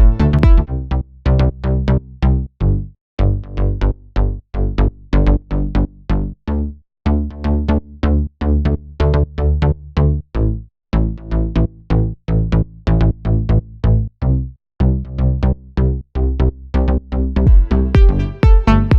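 Melodic house loop playing from the DAW: a synth bass line of short repeated notes over a drum-machine beat, the bass being driven through Decapitator saturation. Sparser through the middle, fuller again near the end.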